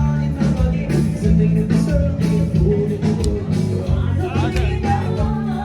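Live band playing a song, with a steady beat of drums and bass, guitar, and singing.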